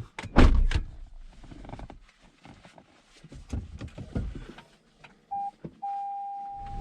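Handling knocks and rustles, the loudest knock about half a second in. About five seconds in a steady electronic beep tone starts: one short beep, then a long held one.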